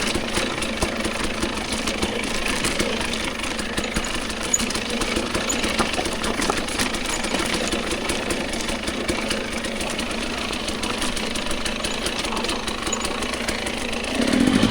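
Dirt bike engine running steadily at low revs, then revving up louder about a second before the end.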